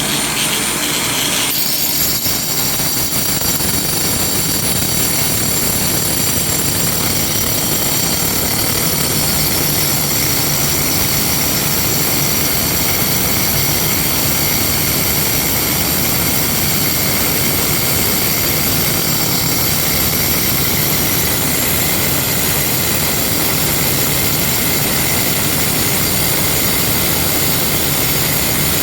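Variable-speed grinder with a diamond blade cutting through a granite countertop, with a shop vac running alongside to pull away the stone dust. The sound shifts about a second and a half in, then runs steadily with a high whine.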